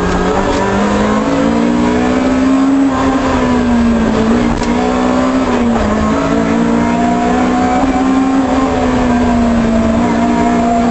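Toyota Corolla GT rally car's 1.6-litre four-cylinder engine running hard at high revs, heard from inside the cabin; the pitch holds fairly steady, dipping briefly and climbing again a couple of times.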